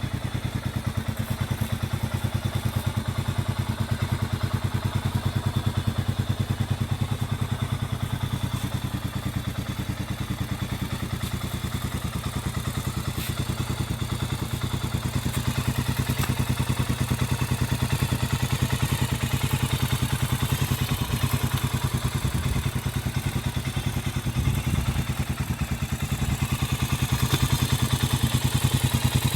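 Honda CB400SS single-cylinder engine running steadily through a Moriwaki short classic full-system exhaust, an even low thumping beat, a little louder near the end.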